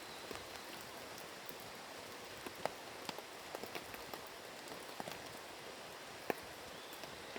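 Light rain falling steadily: an even hiss with scattered single drops tapping.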